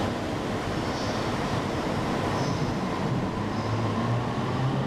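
JR E231-series electric commuter train pulling into the platform, its wheels rumbling on the rails. A low hum steps up in pitch in the second half.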